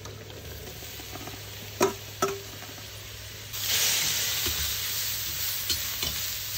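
Chopped sausage sizzling as it goes back into a kazan of fried onion and carrot, with two sharp metal clinks of a spoon against the bowl near two seconds in. A few seconds in, the sizzle gets louder and stays steady as the mix is stirred with a metal spatula.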